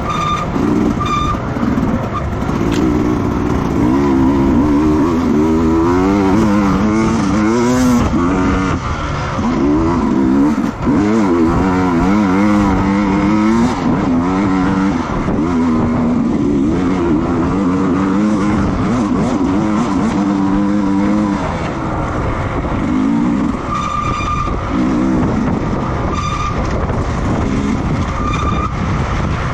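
Racing motorcycle engines revving hard, their pitch rising and falling over and over as the bikes go up and down through the gears, several engines overlapping.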